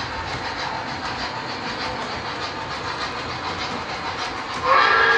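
A sound-equipped model train running on its track: a steady rumble with fast clickety-clack from the wheels. Near the end, a loud horn chord of several held tones starts.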